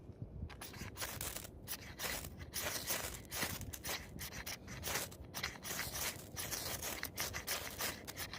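A quick, irregular series of scraping or rubbing strokes, starting about half a second in.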